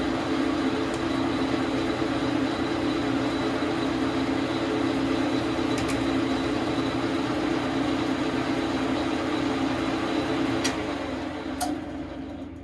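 Dar Sin 12 x 37 manual lathe running steadily with a constant motor hum, a few light clicks along the way; about eleven seconds in it is switched off and spins down.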